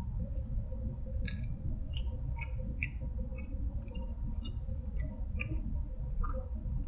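Mouth clicks and smacks of someone chewing a small burger: a scatter of short, sharp clicks, most of them between about one and five and a half seconds in, over a steady low hum.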